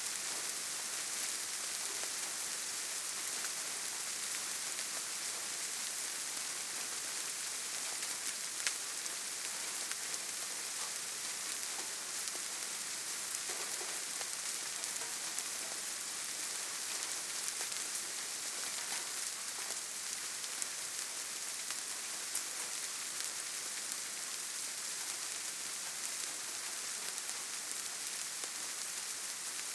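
Steady rainfall in a forest: an even hiss of rain with scattered individual drop ticks, one slightly louder drop about eight seconds in.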